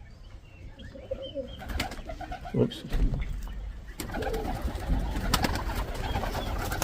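Pigeons cooing, with scattered clicks and knocks over a low rumble.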